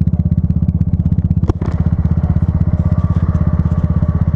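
Motorcycle engine running at a steady speed while riding, its firing pulses rapid and even. A single sharp tap cuts through about one and a half seconds in.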